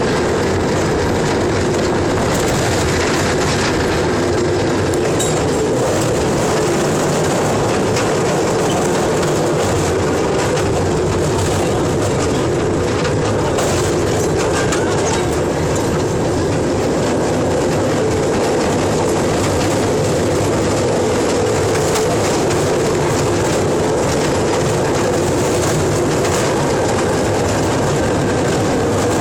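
Train running along the track: a steady, unbroken rumble of wheels on rail.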